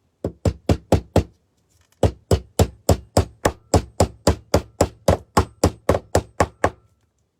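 Hammer tapping a small nail in to fix the metal ribbon roof on the bird house: a few quick taps, then after a short pause a steady run of strikes at about four a second.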